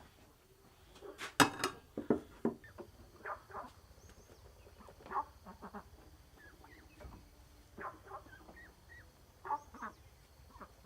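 Farm poultry calling: a string of short calls, loudest about a second and a half in, with faint high bird chirps above them.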